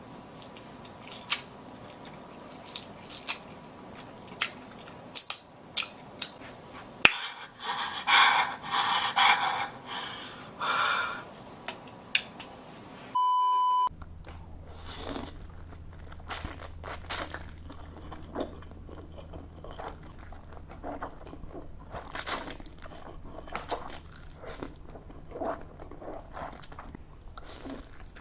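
Close-miked chewing and slurping of noodles: many small wet clicks and smacks, with a louder stretch of slurping a few seconds in. A short electronic beep about halfway through.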